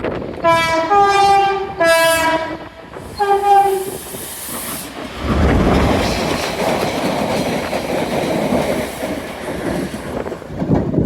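Class 68 diesel locomotive's two-tone horn sounding four short notes, alternating low and high. It then runs past at speed: a loud, steady rush of engine and wheel noise.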